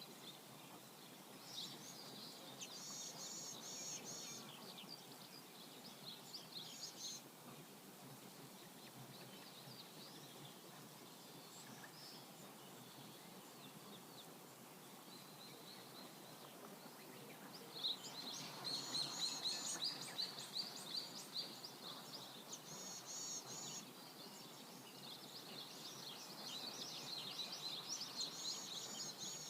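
Songbirds singing high, repeated trills and chirps over the steady rush of a flowing river. The birdsong is busiest a little past the middle and again near the end.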